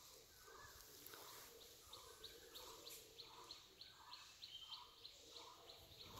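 Faint bird chirping: a quick run of short high chirps, about three a second, starting about two seconds in, over softer lower calls repeating.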